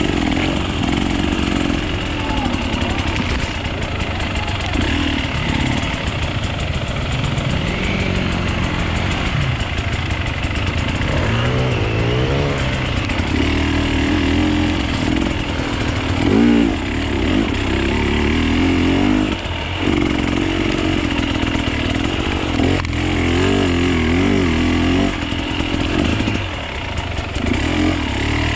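Enduro motorcycle engine running under varying throttle while being ridden, its pitch rising and falling repeatedly as it revs up and eases off.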